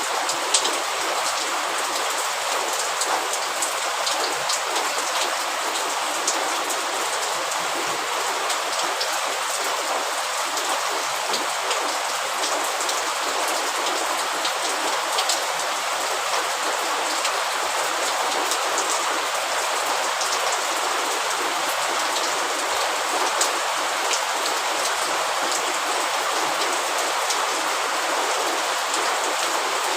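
Steady rain falling, a dense even hiss with many small drops ticking on surfaces.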